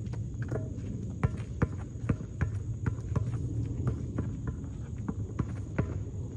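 Basketball being dribbled on a court with footsteps: a string of sharp bounces, about two to three a second, over a steady low rumble.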